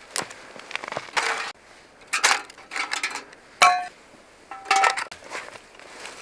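Metal camp cookware being handled: a string of knocks and scrapes, with two clinks that ring briefly about three and a half and four and a half seconds in.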